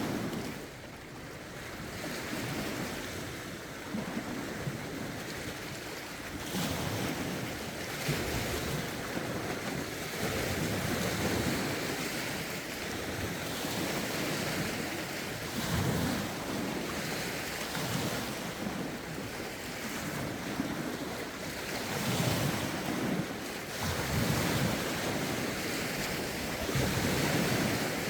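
Lake waves lapping and breaking against the shore in a rough wind, in irregular swells every couple of seconds, with wind rumbling on the microphone.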